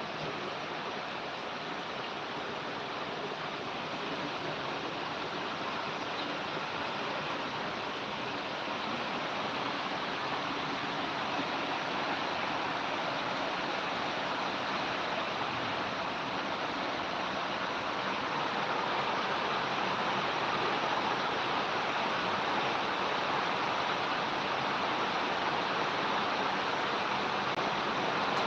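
Heavy rain falling steadily: a dense, even hiss that grows a little louder about two-thirds of the way in.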